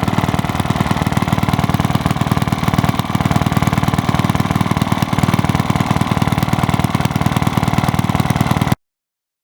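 Villiers Mk10 single-cylinder two-stroke stationary engine running steadily with a fast, even firing beat. The sound cuts off abruptly near the end.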